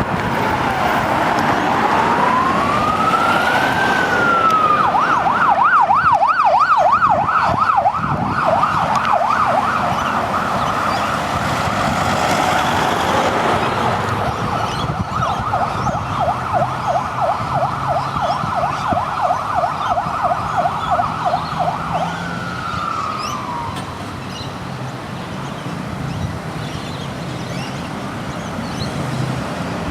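Queensland police car's electronic siren: a slow rising wail, switching about five seconds in to a rapid yelp, which winds down with a falling tone a little past twenty seconds. Traffic noise carries on after the siren stops.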